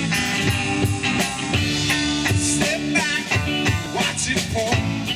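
Live band playing a rock-R&B song, with guitars over bass and percussion.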